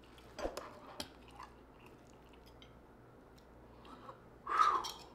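A person chewing food close to the microphone, with a few sharp wet mouth clicks in the first second and a short louder mouth sound near the end.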